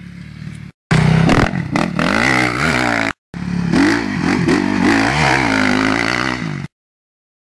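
Motocross dirt bike engine revving up and falling back again and again as the rider accelerates and backs off, loud and close, broken twice by brief cuts to silence, and stopping abruptly near the end.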